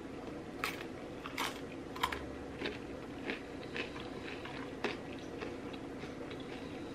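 A person eating close to the microphone: crisp crunching bites and chewing, with about eight sharp crunches in the first five seconds over steady background noise.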